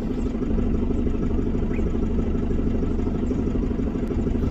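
Safari vehicle's engine running steadily, with a low even drone.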